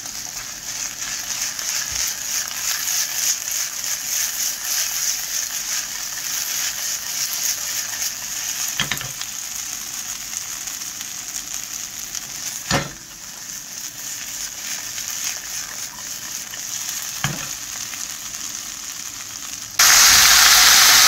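Julienned potatoes frying in oil in a nonstick pan, a steady sizzle broken by three sharp knocks. Near the end the sizzle suddenly turns much louder, with fresh scallions and chili peppers now in the pan.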